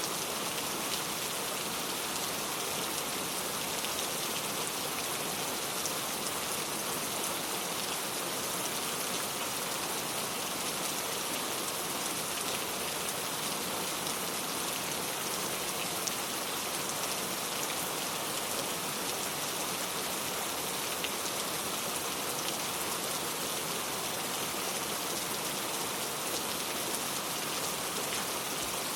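Steady rain falling, a dense even patter of drops hitting a surface with no change in intensity.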